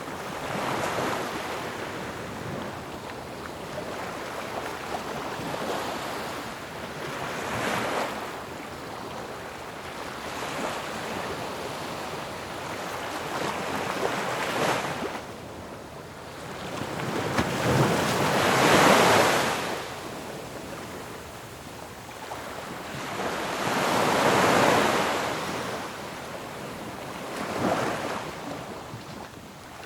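Ocean waves breaking on a shore, a continuous rushing wash that swells with each wave every few seconds, the biggest crashes a little past halfway through.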